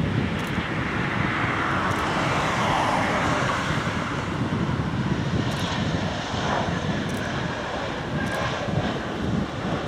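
Jet airliner engines running, a steady rush of noise with a band that slides down in pitch over the first few seconds.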